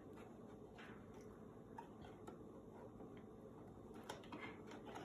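Near silence with a few faint, scattered light clicks and taps.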